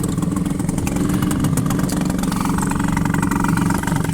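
1984 Mariner 4 hp two-stroke outboard motor running steadily.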